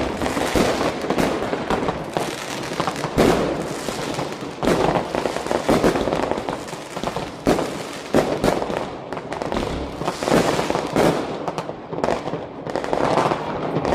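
Fireworks and firecrackers going off all around in a continuous barrage: sharp bangs every second or so over constant crackling, the loudest about three seconds in.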